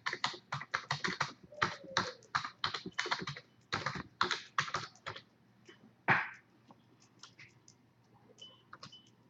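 Typing on a computer keyboard: quick runs of keystrokes for about five seconds, then a few scattered keys and one louder key press about six seconds in.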